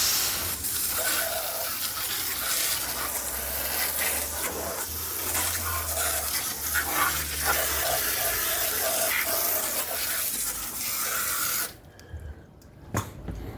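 Water spraying steadily onto a lawn mower to wash off caked dirt, the spray hissing and splattering on the deck; it cuts off suddenly near the end.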